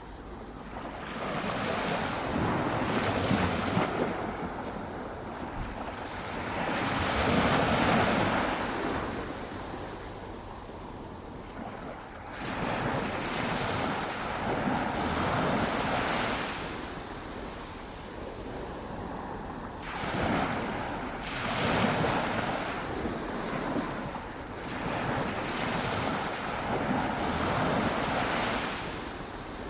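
Small waves on a flat calm ocean breaking and washing up the beach, the surf swelling and fading every few seconds.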